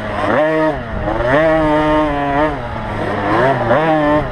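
Small two-stroke motocross bike engines revving, their pitch climbing, holding and dropping several times as the throttle opens and closes, over a steadier lower engine note.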